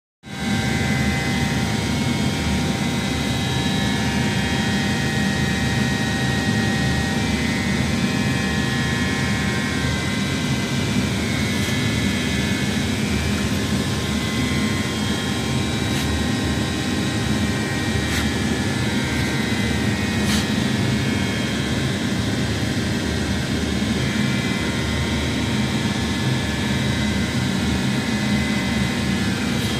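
A machine running steadily: a continuous drone with a low rumble and several high whining tones, and a few faint clicks.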